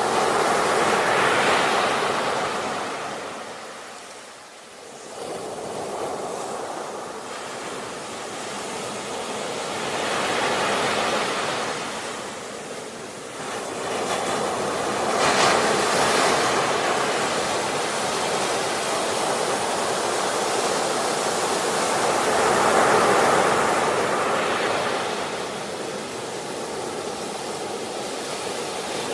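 Sea waves breaking and washing up on a shore, the surf swelling and falling back every several seconds, with a short lull about four seconds in.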